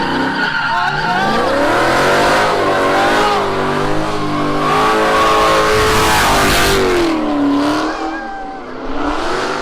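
Car engine revving hard, its pitch repeatedly rising and falling, over a steady hiss of tires spinning and squealing on pavement.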